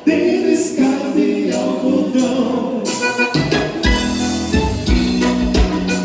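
Live gaúcho dance-band music led by button accordion (gaita). The music restarts after a brief dip at the start, plays without bass and drums for about three seconds, then the full band with bass and drums comes back in.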